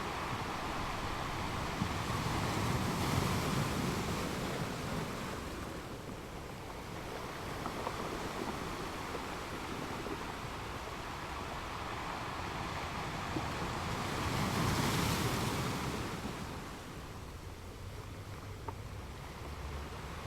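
Ocean waves breaking and washing up a beach: a steady wash of surf that swells twice, about three seconds in and again near fifteen seconds, as waves come in and break.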